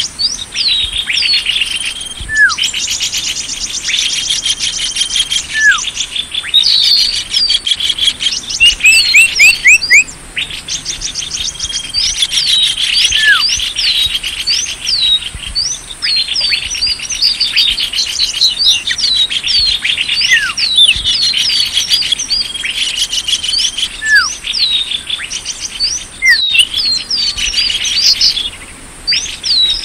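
Bird-lure (pikat) recording of small birds calling: dense high chirps and rapid trills, with a single falling whistle now and then.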